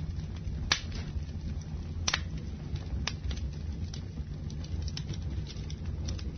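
Campfire burning with a steady low rumble and scattered sharp crackles and pops, the loudest about a second in and two seconds in.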